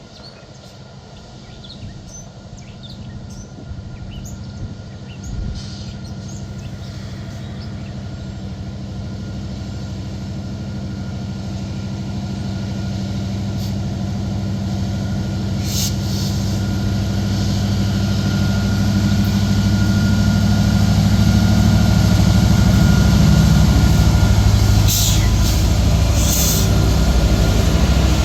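Diesel locomotives of an approaching train, their engines growing steadily louder as the train nears, with a few short sharp clicks near the end. Birds chirp faintly at the start.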